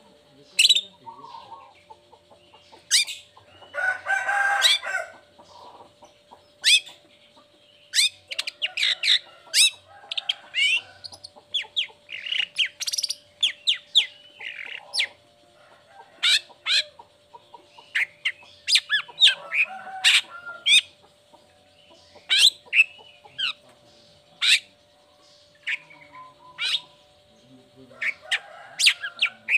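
Long-tailed shrike (cendet) singing: a string of sharp, quick notes that slide down in pitch, crowding into a rapid chatter in the middle, with two harsh, rasping calls among them.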